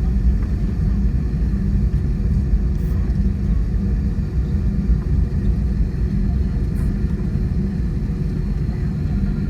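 Steady low rumble inside a jet airliner's cabin as it taxis after landing, engines running at low power, with a faint steady hum above the rumble.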